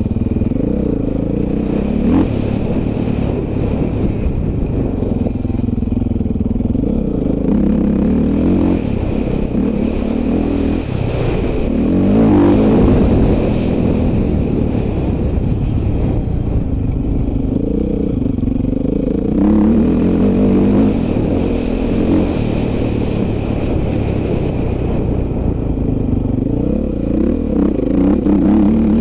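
Dirt bike engine revving up and down as it is ridden off-road, the throttle opened and closed over and over, with stronger bursts of throttle about twelve and twenty seconds in.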